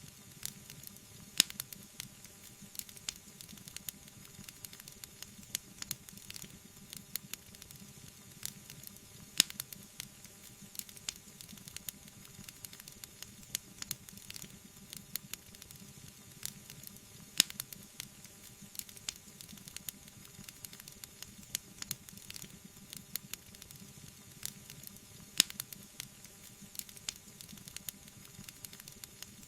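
Wood fire crackling: dense irregular snaps and pops over a soft steady hiss, with four louder pops about eight seconds apart.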